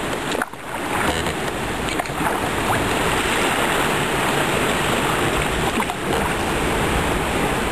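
Fast river water rushing and splashing around a kayak, with wind buffeting the microphone.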